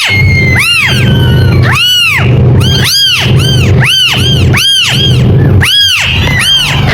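Kittens meowing: high-pitched mews that rise and fall, repeated about two a second and sometimes overlapping, over a steady low hum.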